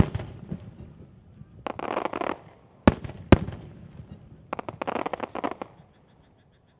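Aerial fireworks shells bursting overhead: a sharp bang at the start, and two loud bangs about half a second apart around three seconds in. Between and after them come two spells of rapid crackling, around two and five seconds in.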